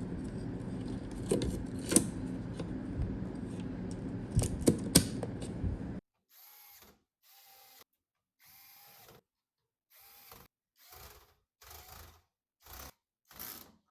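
A small motor, like a tool running, runs steadily with scattered clicks and knocks for about six seconds, then cuts off suddenly. About nine short, quieter bursts follow, each under a second long.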